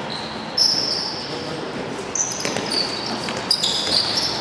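Rubber-soled shoes squeaking repeatedly on an indoor court floor during handball play, short high squeals coming in quick succession, with a ball bouncing and voices in the hall.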